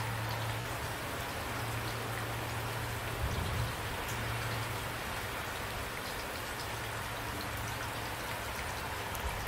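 Steady rain falling, with individual raindrops heard over the wash of the rain, and a low steady hum underneath. Brief low thuds come about three seconds in and again near the end.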